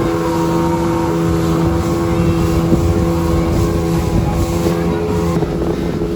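Gladiator 9.9 outboard motor running at a steady pitch as the boat moves under way, with the rush of water and wind over it.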